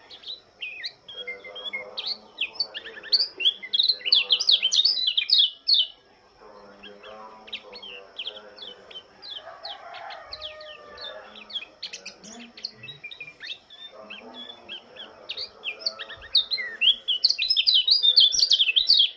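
Pleci lombok (white-eye) singing: quick runs of high twittering chirps, loudest in a dense burst about four seconds in and again near the end.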